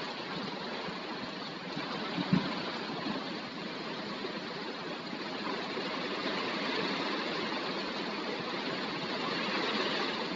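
Heavy rain from a summer thunderstorm pouring down in a steady hiss, with one short knock about two seconds in.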